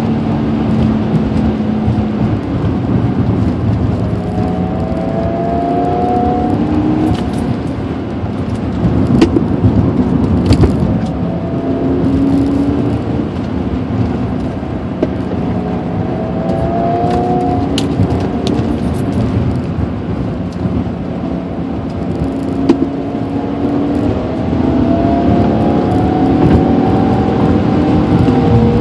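Car engine and road noise heard from inside the cabin during spirited driving on a twisty road. The engine pitch climbs in several sweeps as the car accelerates out of the bends, with occasional sharp clicks.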